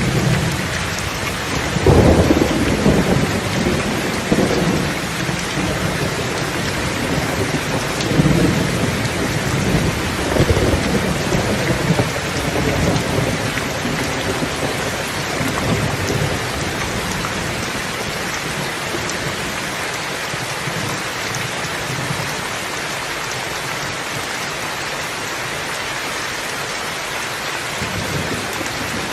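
Steady rain with rolling thunder rumbling low in the first half, dying away after about fifteen seconds.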